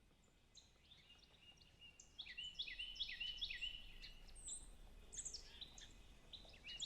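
Faint songbird singing: a fast series of short, high whistled notes, each sliding downward, repeated several times a second and growing louder about two seconds in.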